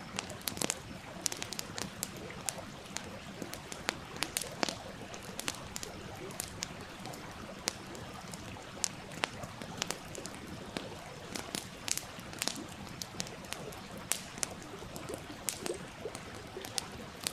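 Wood fire crackling, with frequent sharp, irregular pops over the steady rush of a small stream.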